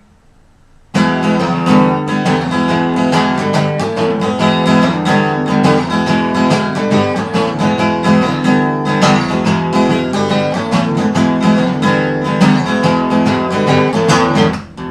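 Acoustic guitar strummed in a steady, busy rhythm: the instrumental intro of a punk song played on acoustic guitar, starting about a second in after a quiet moment.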